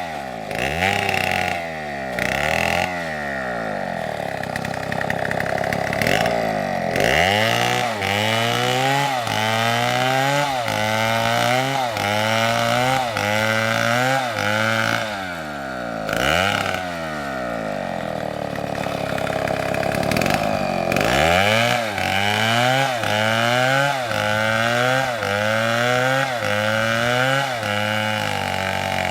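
STIHL two-stroke chainsaw cutting into wood. The engine's pitch rises and falls again and again as the saw is revved and bogs in the cut, with a couple of steadier stretches.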